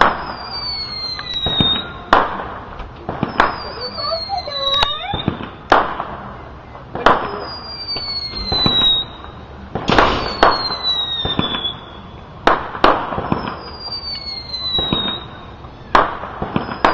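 Whistling spinner fireworks going off: about every three seconds a high whistle slides slowly down in pitch, among repeated sharp bangs and cracks.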